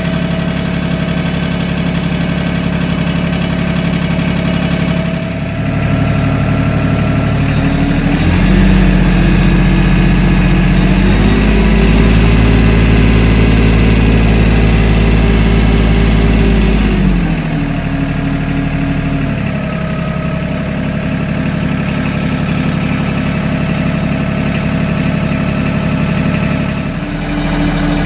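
Compact diesel tractor's Mitsubishi engine running just after a cold start. It idles, speeds up about five seconds in, runs faster from about eight to seventeen seconds, then settles back to idle, rising slightly again near the end.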